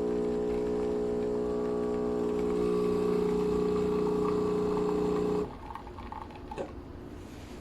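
Philips 3200-series espresso machine's pump running with a steady hum, growing a little louder partway through, then cutting off abruptly near the end, followed by a faint click or two.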